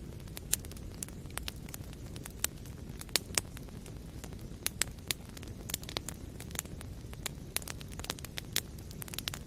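Wood fire burning in a fireplace: a steady low rumble with irregular crackles and sharp pops of burning wood, several a second.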